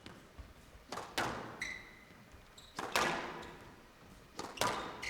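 Squash rally: the ball struck by rackets and hitting the court walls in several sharp knocks a second or two apart, with shoes squeaking briefly on the court floor.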